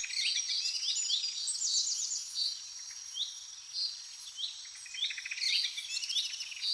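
Small birds chirping in a quick string of short, high notes, some falling, over a steady high insect drone.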